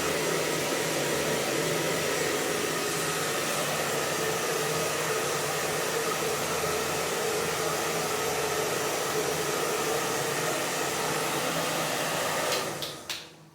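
Hair dryer blowing steadily, with a steady hum under the rush of air, then shut off near the end.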